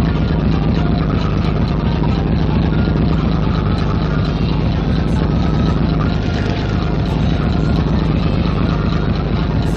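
Fishing boat's engine idling steadily, a low even drone under a wash of noise.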